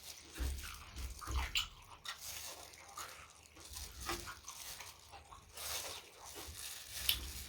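Close-miked eating sounds: a person chewing and biting food, with irregular wet clicks and crunches and a sharper crunch near the end.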